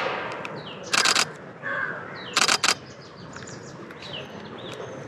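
DSLR camera shutter firing in short rapid-fire bursts, twice, about one and two and a half seconds in. Birds call in the background with short high notes that slide downward.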